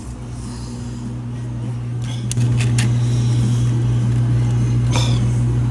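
Self-serve soda fountain machine running with a steady low hum that steps up louder about two and a half seconds in, with a few light plastic clicks from cups and lids being handled.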